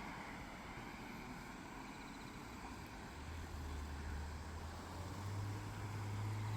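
A low engine drone rises out of the outdoor background about halfway through, stepping up in pitch and getting louder near the end.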